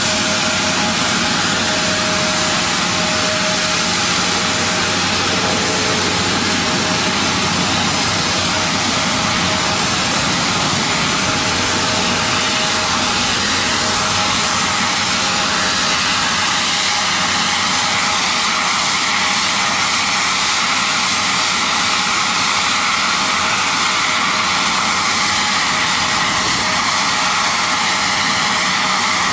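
Aircraft jet engine running steadily on the ground: a loud, even roar with a faint steady whine through the first half.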